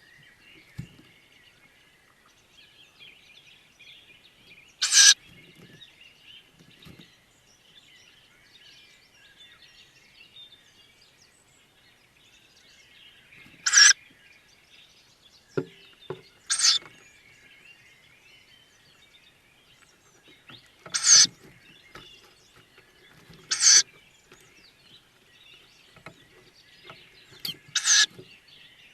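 Tawny owl chicks in the nest box giving short, harsh, hissing begging calls, six in all, spaced a few seconds apart. Faint chirping of other birds runs underneath.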